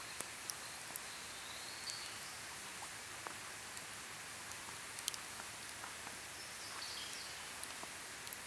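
Campfire burning, crackling with sharp, irregular snaps and pops over a steady hiss.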